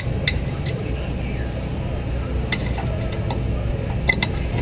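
Steady low engine rumble around a dirt-track race car in the pits, with a few sharp metallic clicks and taps close to the car, two of them together near the end.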